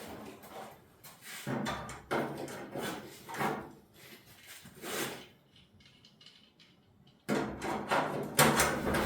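Irregular scrapes and clunks from hand-tool work on old truck sheet metal, in several separate strokes, with a quiet stretch and then a louder cluster near the end.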